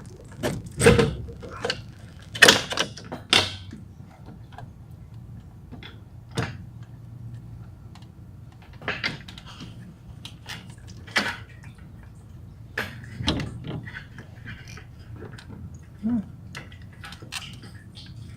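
Irregular clicks, knocks and clatter of hard plastic and metal parts as the fuel pump assembly is worked loose and lifted from the top of the fuel tank. The sharpest knocks come in the first few seconds, with lighter taps through the rest.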